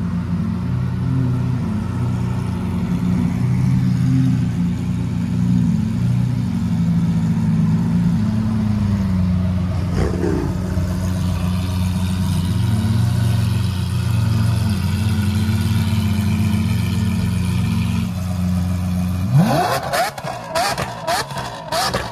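Lamborghini Aventador V12 engines with aftermarket exhausts idling steadily. About nineteen seconds in, one revs sharply, then blips the throttle again and again in quick rises and drops with sharp cracks.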